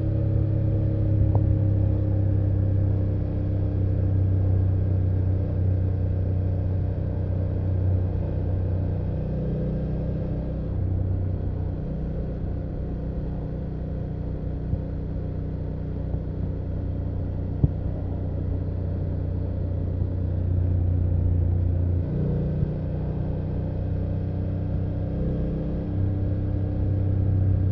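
BMW F800GS parallel-twin engine and exhaust running steadily under way, heard from the rider's seat. The engine note eases off about ten seconds in and picks up again a little after twenty seconds, with one short sharp click near the middle.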